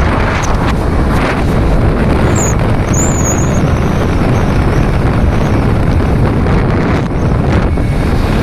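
Strong wind buffeting the microphone: a loud, steady, deep rushing noise, with a few faint high squeaks about two and a half to three and a half seconds in.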